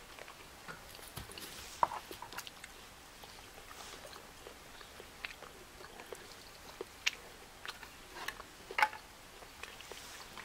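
A person chewing and eating steak close to the microphone: irregular soft smacks and clicks, with a few sharper ones about two seconds in and again near the end.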